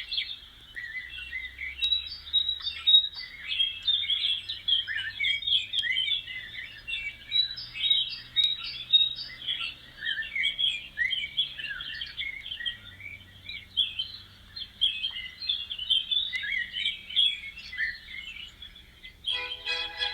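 A dense chorus of many small birds chirping and twittering at once, short overlapping calls with no pauses, starting abruptly. Music comes in near the end.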